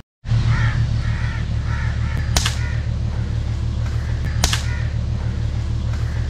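A rapid series of bird calls, about three a second, over a steady loud low hum, with two sharp clicks about two seconds apart. The sound starts abruptly after a brief silence.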